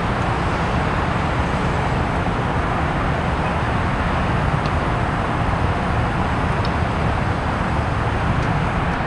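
Steady outdoor background noise: a low rumble with an even hiss above it, unchanging throughout.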